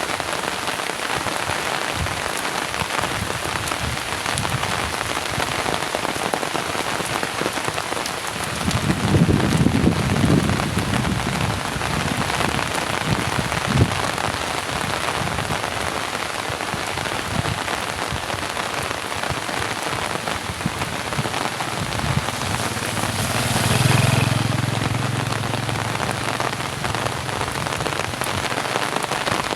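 Heavy rain pouring steadily. A low rumble swells briefly about nine seconds in, and a low hum rises and fades about two-thirds of the way through.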